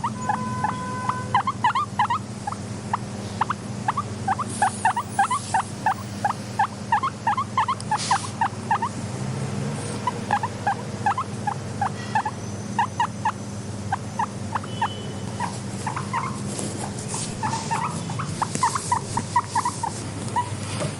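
Guinea pig squeaking: a long run of short, rising squeaks, several a second, broken by brief pauses, over a steady low hum.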